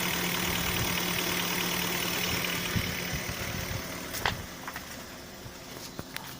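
BMW X5's M62 V8 idling steadily with its freshly rebuilt VANOS units, running without extraneous noises or knocking. It grows quieter about four seconds in, with a couple of sharp clicks near the end.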